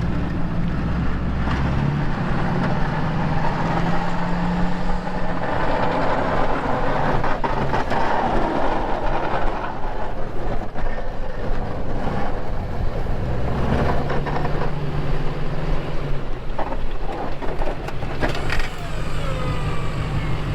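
Plow truck engine running, heard from inside the cab, its pitch shifting up and down a few times, under a steady rushing noise.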